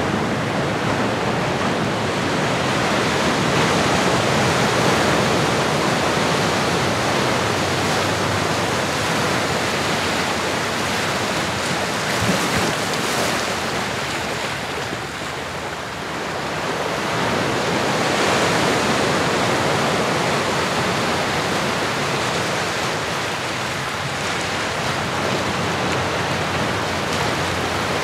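Ocean surf: waves washing in as a continuous rush that slowly swells and eases, softer for a moment about halfway through.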